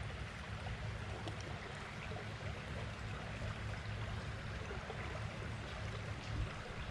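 Steady rush of creek water flowing, with a low rumble underneath.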